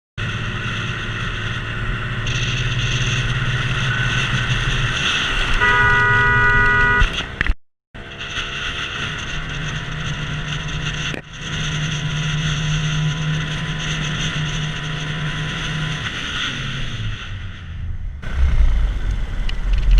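Steady car road and engine noise heard from inside a vehicle, with a car horn sounding for about a second around six seconds in. The sound drops out briefly just before eight seconds.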